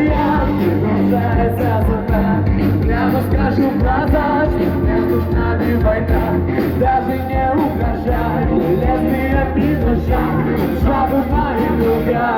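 Live rock band playing loud, with shouted singing over guitars, bass and drums.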